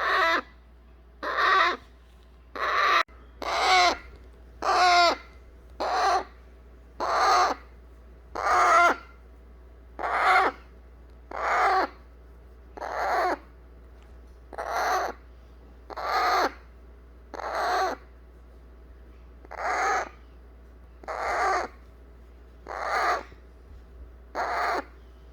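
Baby eclectus parrot giving harsh, rasping begging calls, about eighteen in a row, one every second and a half or so. The chick makes this sound after its hand-feeding formula, fussing to be held.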